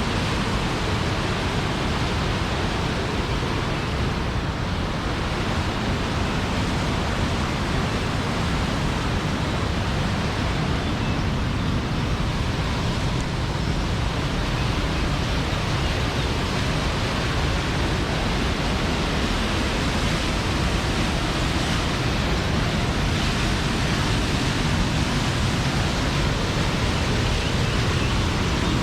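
Rushing water of a mountain waterfall cascading: a steady, unbroken rush.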